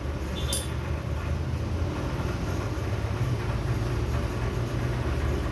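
A steady low mechanical hum, with one brief click about half a second in.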